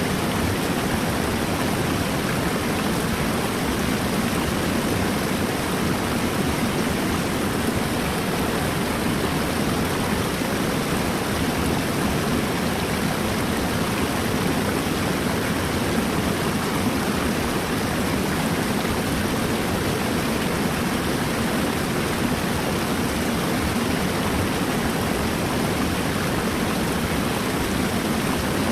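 Flowing river water rushing with a steady, even sound and no separate splashes or pauses.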